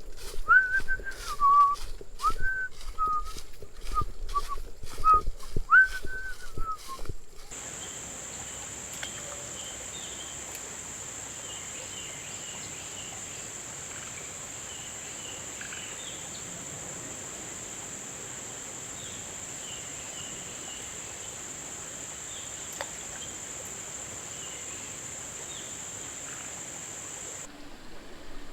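Footsteps knocking and clacking on creek rocks with several short whistled notes that glide up and down. Then, for about twenty seconds, a steady outdoor hiss with a constant high insect-like drone.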